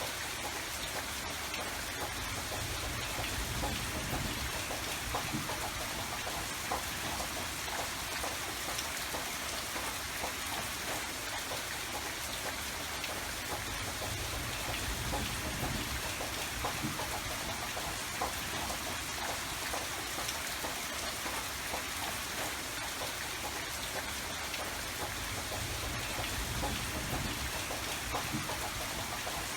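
Steady rain falling, a dense patter of individual drops, with a low rumble underneath that swells and fades several times.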